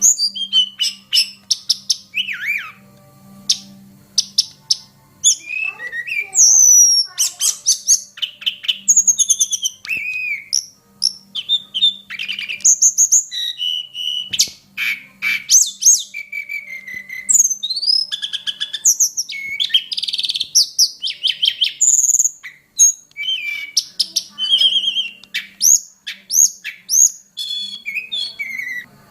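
Tledekan gunung singing a long, varied song of loud whistles, quick trills and up- and down-gliding notes in rapid phrases, with only brief pauses between them.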